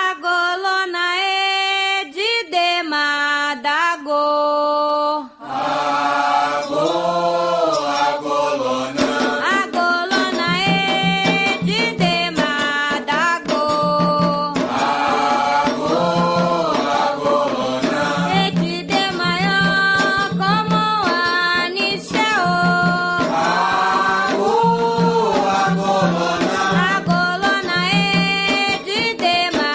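Afro-Brazilian devotional song (ponto) for Xangô in Yoruba: a lead voice starts the chant alone, and about five seconds in the fuller accompaniment comes in with a steady pulse under the singing.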